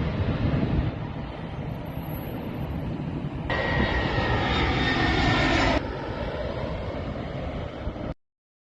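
Aircraft engine noise: a steady rumble with a faint whine that switches abruptly twice, as the audio jumps between clips, then cuts off to dead silence just before the end.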